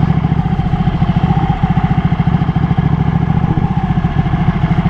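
Ducati motorcycle engine idling with a fast, even pulsing beat, heard from the saddle.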